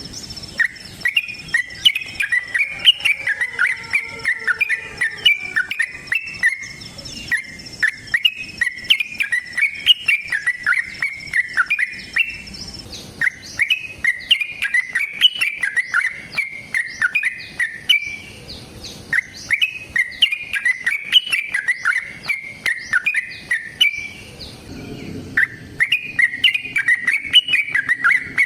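Yellow-vented bulbul (trucukan) singing long, rapid, chattering phrases of about five seconds each, separated by short pauses. A steady high insect tone sounds behind it until about halfway through.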